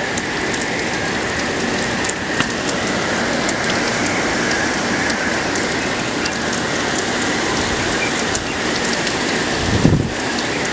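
Heavy hurricane rain pouring steadily, with a steady high-pitched whine running underneath and a short low rumble near the end.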